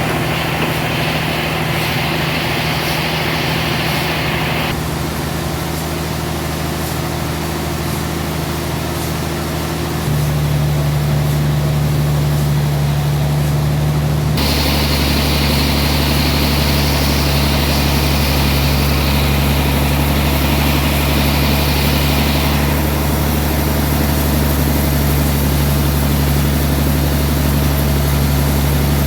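Sawmill machinery running steadily with a low engine hum, its sound changing abruptly a few times.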